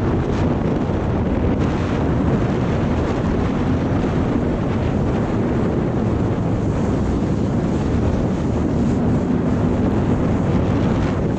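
Jet ski running at speed on the water, its engine drone steady with a faintly wavering pitch, under heavy wind buffeting on the microphone and water rushing past.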